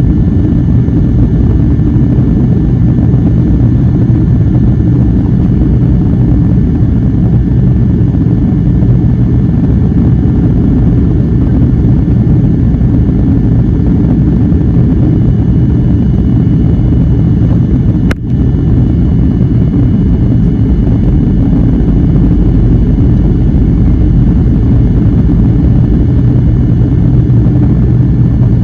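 Airliner cabin noise: a loud, steady low rumble of the jet engines and airflow heard from inside the cabin, with faint steady high tones above it. A brief click and momentary dropout about 18 seconds in.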